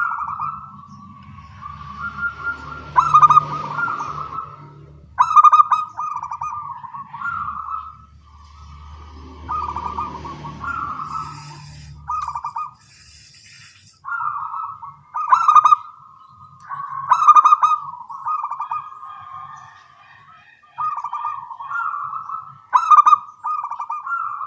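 Zebra doves (local perkutut) cooing back and forth, one trilling coo phrase after another every second or two, each opening with a loud, sharp note.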